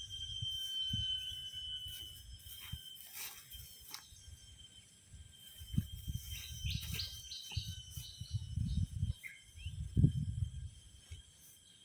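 Outdoor ambience: a steady high-pitched insect drone with a few brief bird chirps, over irregular low thumps and rumbles of mic handling or wind.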